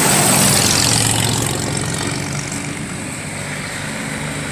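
Car engines running steadily, with a louder rushing noise in the first second and a half that then dies down.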